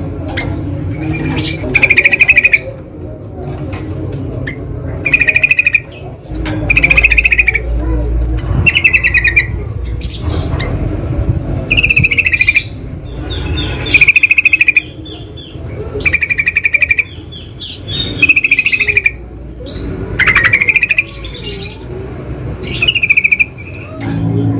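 Yellow-vented bulbul (trucukan) calling: short, loud, bubbly phrases about a second long, repeated every one to two seconds, over a steady low rumble.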